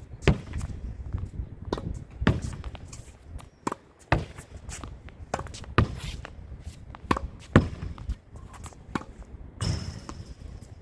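Tennis rally against a practice wall with a regular-weight, regular-compression ball: sharp pocks of the ball off the racket strings and the wall, about every one to two seconds.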